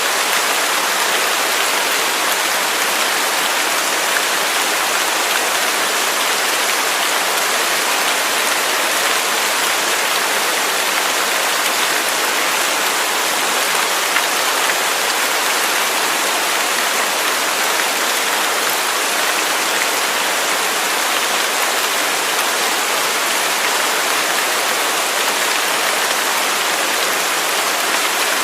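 Waterfall: a steady, even rush of falling water, hissy and bright, with no change in level.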